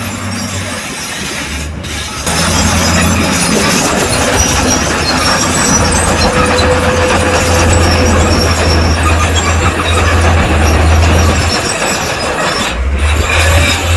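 Crawler bulldozer working: diesel engine running steadily under load over a dense clatter and grinding of steel tracks. It gets louder about two seconds in and cuts out briefly twice.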